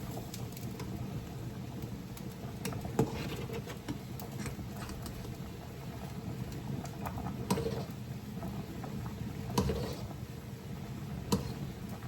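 Steady low kitchen hum while food cooks on the stove, broken by a few light clicks and knocks: about three, seven and a half, nine and a half and eleven seconds in.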